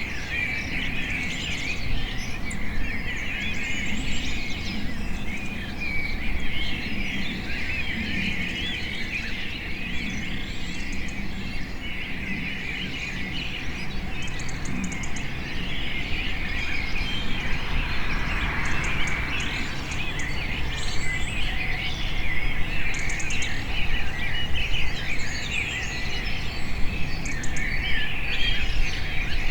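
Many birds chirping and trilling at once, a dense overlapping chorus, over a steady low background rumble, with a few rapid high ticking trills now and then.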